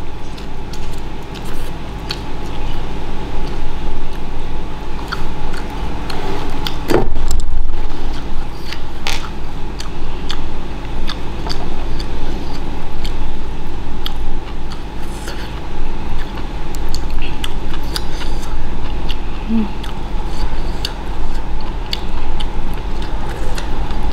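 Chewing and scattered sharp clicks as a person eats beef and rice by hand, with a louder knock about seven seconds in, over a steady low hum.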